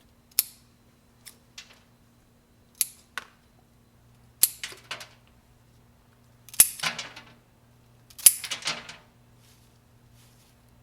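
Kitchen handling noises: a few sharp single clicks, then three longer crackly clusters of clicks and rustles, over a faint steady hum.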